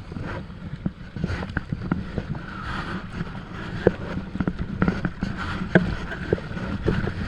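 Kayak paddling: paddle blades dipping and splashing, with water slapping and dripping in many small, irregular splashes over a steady low rumble.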